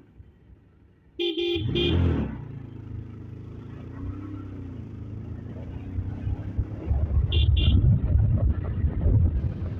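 A vehicle horn honks twice in quick succession about a second in, followed by a steady low rumble of road traffic and engines. Two short high-pitched beeps come near the middle of the rumble.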